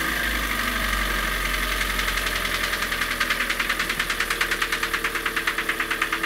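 Hyundai ix35's G4NA 2.0-litre four-cylinder petrol engine idling just after starting, with a rapid, even knock of about ten beats a second that grows plainer about halfway in. This is the engine's common knock fault, the one that ends with its block being sleeved.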